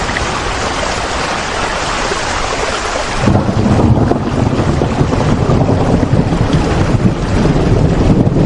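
Steady heavy rain. About three seconds in, the sound turns deeper: the hiss falls away and a low rumble rises and carries on.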